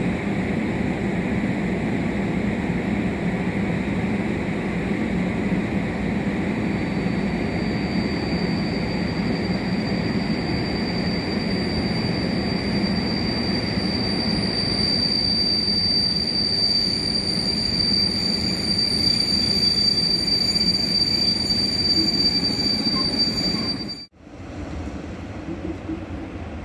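Passenger train hauled by an EP07 electric locomotive rolling into a station, a steady rumble of wheels on rails. From about seven seconds in a steady high-pitched squeal from the train sounds over it; near the end the sound cuts off abruptly and a quieter rumble follows.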